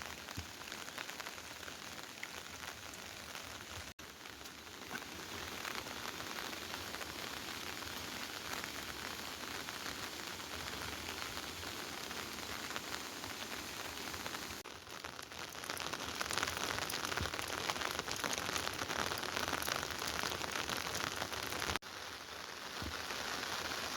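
Steady rain falling, a dense even patter with no distinct events. It gets heavier in the second half and changes level abruptly a few times.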